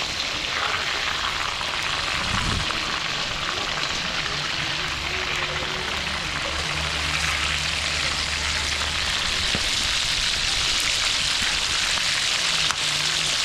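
Food frying in hot oil in a cooking pot, a steady, even sizzle.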